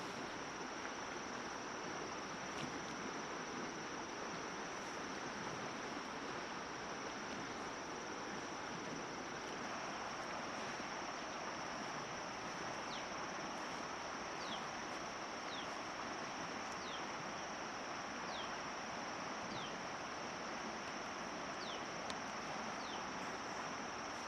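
Outdoor insect chorus: a steady high-pitched trill of crickets or cicadas over an even rushing hiss. In the second half, about ten short falling chirps come roughly one a second.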